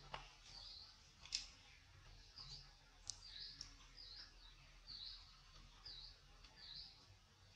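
Faint bird chirping: one short high call repeated about once a second, with a few sharp clicks, the loudest about a second in.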